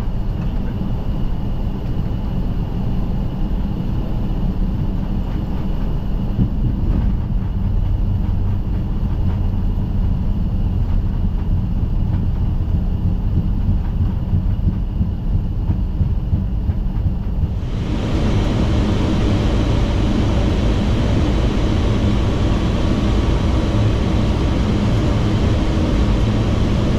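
Steady flight-deck noise of a Boeing 757-200 freighter: a low engine and airframe rumble with a faint high whine. About eighteen seconds in, the sound changes abruptly to a louder, hissier rush of air and engine noise.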